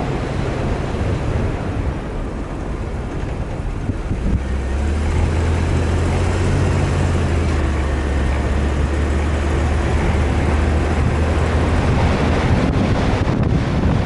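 Off-road vehicle driving, its engine running with a low steady hum that grows stronger from about four seconds in, under heavy wind and rumble noise.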